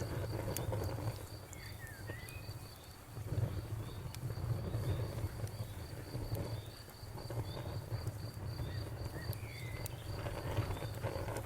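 Crickets chirping in a steady pulse, about three chirps a second, over a crackling bonfire with scattered sharp pops and a low, fluctuating rumble.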